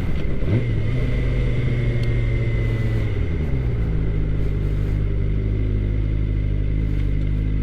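2013 Suzuki GSX-R 600's inline-four engine running under way, a steady engine note that drops to a lower pitch about three seconds in.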